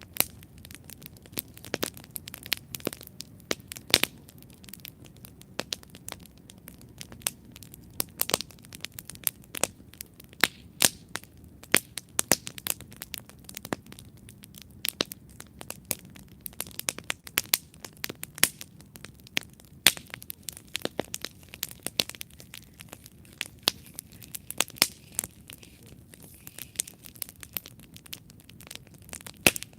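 Wood campfire burning and crackling: irregular sharp pops and snaps, several a second, over a low steady rumble of the flames.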